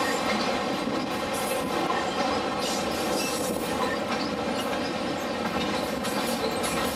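Freight train of CSX autorack cars rolling past close by: a steady rumble of steel wheels on rail, with short rattles from the cars.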